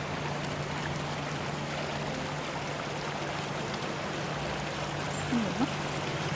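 Water running steadily through a stone water feature, with a low steady hum underneath.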